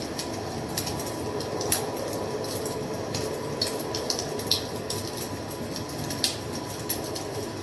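Wood fire crackling: a steady low rush with sharp, irregular pops and snaps every second or so.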